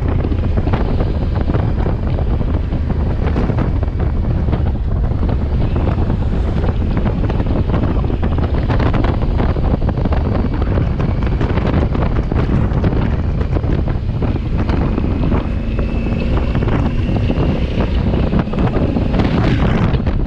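Heavy wind buffeting on the microphone of a moving motorcycle, a steady low rushing with road noise beneath it.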